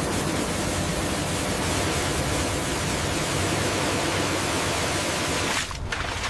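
Loud, steady rushing noise with no tone in it, like water or high-pressure spray, that drops away about five and a half seconds in.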